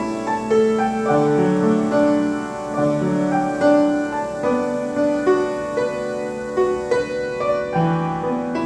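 Piano playing a slow melody over sustained lower notes and chords.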